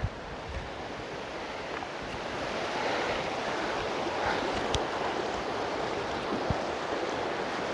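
Creek water rushing out of a storm ditch and culvert in a steady roar of running water, growing louder over the first couple of seconds and then holding, with a few faint knocks.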